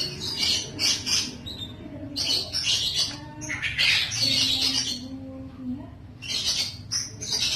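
Small birds chirping and squawking in several loud bursts, with short pauses between them.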